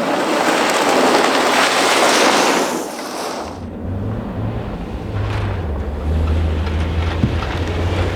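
Rally car on a snow stage: a broad rushing noise of tyres and wind that fades about three seconds in, followed by a steady low engine drone.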